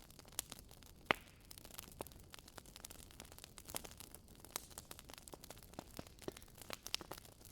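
Wood fire crackling in a fireplace: irregular sharp pops and snaps from the burning logs over a faint steady hiss, one louder pop about a second in.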